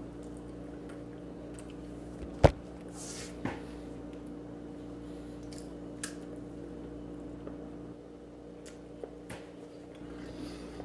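Soft, wet sounds of a banana being peeled and eaten, with a sharp snap about two and a half seconds in and a few fainter clicks later. A steady low hum runs underneath.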